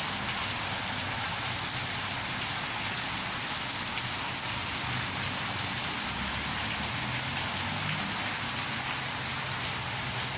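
Heavy downpour falling steadily, a dense even hiss of rain hitting the ground.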